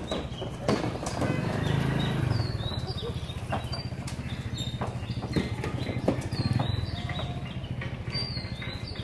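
Birds chirping in short, high calls every second or two over a steady low rumble, with a few sharp knocks.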